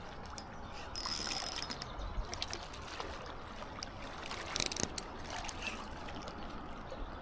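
Fishing reel clicking and ratcheting: a run of irregular mechanical clicks while line is worked on the reel.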